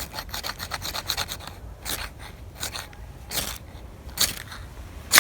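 Magnesium fire-starter rod (fire steel) scraped with a striker in a run of short, quick, irregular scraping strokes, shaving magnesium dust onto birch-bark tinder.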